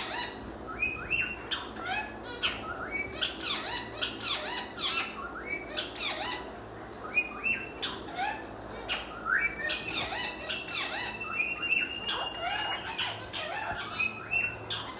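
Pet parrots squawking and chirping in a rapid, continuous string of short calls sweeping up and down in pitch, with one held whistle lasting about two and a half seconds around ten seconds in.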